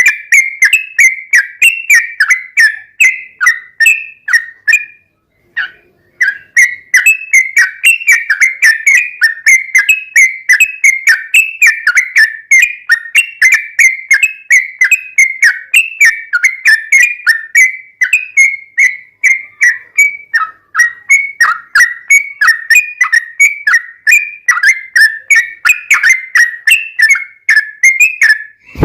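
Sooty-headed bulbul (trucuk) singing a long, fast run of repeated whistled notes, several a second, with a short break about five seconds in.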